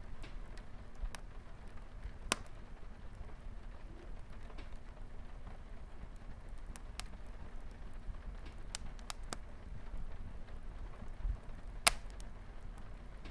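Wood fire crackling, with scattered sharp pops (the loudest about two seconds in and near the end), over a steady soft patter of light rain on a window.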